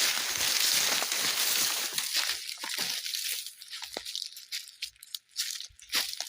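Footsteps crunching through dry leaves and twigs on a forest floor. The crunching is dense at first, then breaks into separate sharp crunches with short gaps from about two and a half seconds in.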